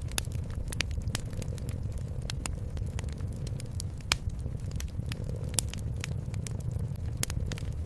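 Wood fire crackling in a fireplace, with irregular sharp pops; the loudest come about four seconds in and again a second and a half later. Underneath runs a low, steady rumble of cat purring.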